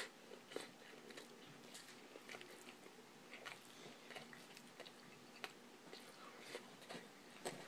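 Faint chewing of a mouthful of stir-fried kale, with small irregular crunches and clicks.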